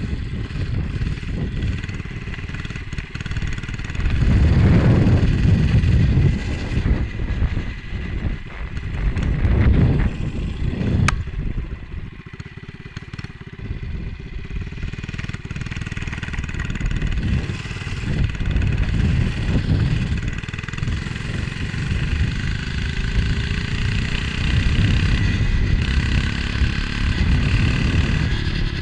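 Motovox MBX11 minibike engine running during a ride, largely buried under wind buffeting on the helmet-camera microphone. The wind surges louder about four seconds in and again near ten seconds.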